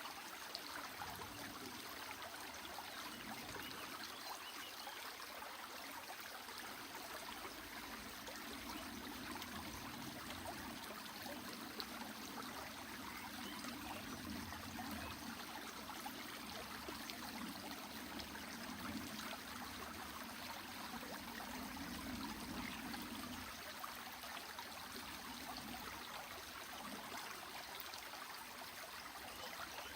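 Water running in a stream, a steady rushing and trickling that swells a little now and then.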